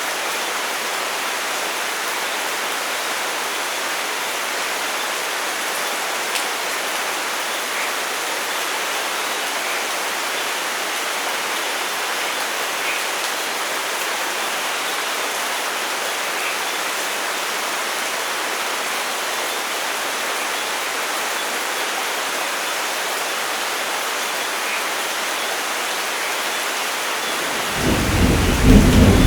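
Steady rain falling, an even hiss. About 28 seconds in, a loud low roll of thunder begins and builds.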